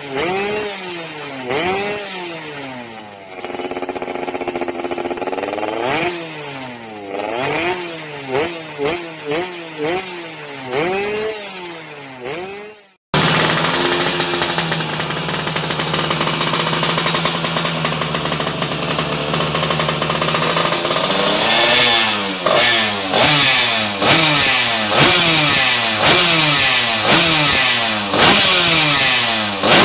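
Yamaha F1ZR two-stroke single-cylinder engine revved through an aftermarket racing exhaust, in repeated quick throttle blips that rise and fall in pitch. The sound breaks off abruptly about 13 seconds in. A second, louder recording follows: the engine is held at steady revs for several seconds, then the quick blips start again.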